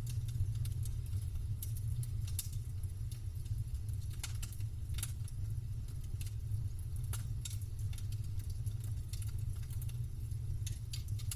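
Campfire crackling: burning wood gives irregular sharp pops and snaps, several a second, over a steady low rumble.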